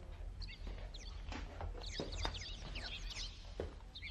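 Small birds chirping in many short, quick calls over a steady low hum, with a few soft knocks.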